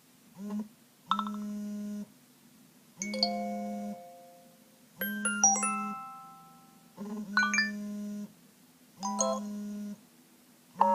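iPhone speaker playing iOS 7 default alert tones in turn: short chimes of a few bell-like notes that ring and fade, a new one starting about every two seconds, each with a steady low hum under it.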